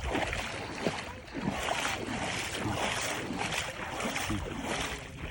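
Small waves washing on a beach, with wind buffeting the microphone.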